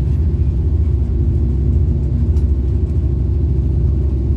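Steady low rumble of a passenger train moving, heard from inside the carriage.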